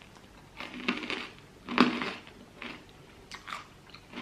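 A person eating pumpkin soup, close to the microphone: a few short mouth sounds of sipping and chewing, about one a second.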